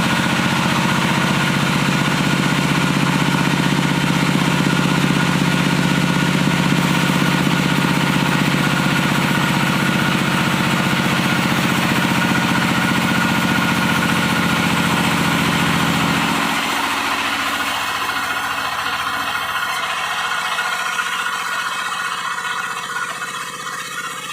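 Diesel engine of a wood-sawing machine running steadily, then cutting out about two-thirds of the way through, leaving quieter sound.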